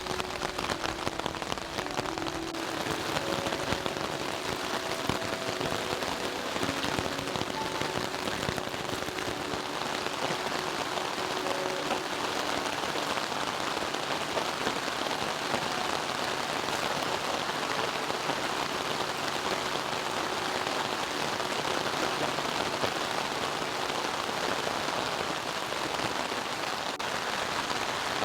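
Steady rain hitting a Hilleberg Tarp 10 UL shelter tarp.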